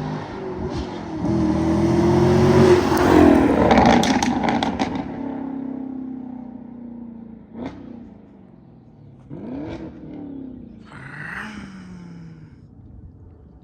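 2020 Chevrolet Camaro SS 1LE's 6.2-litre V8 through a Borla ATAK axle-back exhaust, accelerating hard past, loudest about three to four seconds in, then fading with falling pitch as it pulls away. Three shorter, fainter rises in the engine note follow further off.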